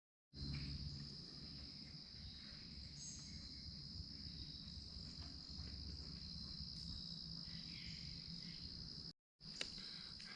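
Crickets trilling steadily in one continuous high-pitched drone, with two short dropouts to silence, at the start and about nine seconds in.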